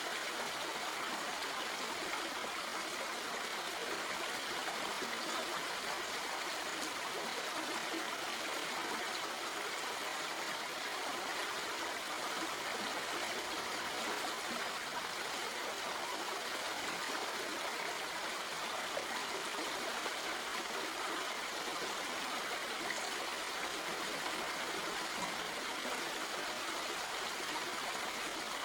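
Stream water flowing steadily over rocks, an even rushing babble with light trickling.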